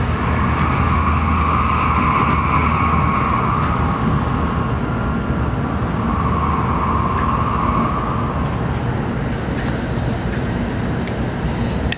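Steady running noise of a Tokaido Shinkansen Nozomi train heard inside the passenger car at speed: a constant rumble of the train on the track with a low hum. A higher hum over it fades out about eight seconds in.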